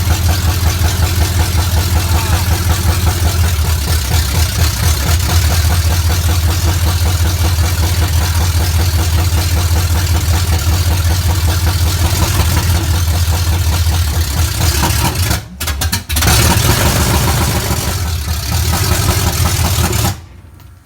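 Chevrolet C10 pickup's newly installed engine running steadily, loud and close, with an even rapid pulse, during carburetor adjustment. The sound breaks off briefly about three-quarters of the way through, then comes back and drops away shortly before the end.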